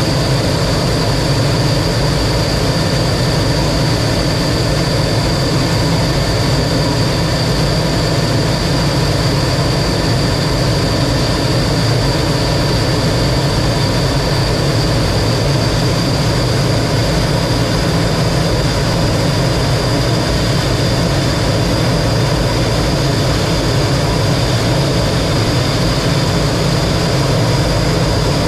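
T-33 jet trainer's turbojet running steadily: a continuous rumble with a thin, high whine above it.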